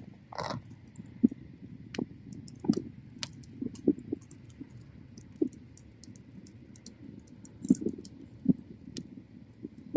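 Wood bonfire crackling, with irregular sharp pops over a low steady rumble of the flames and a short hiss about half a second in.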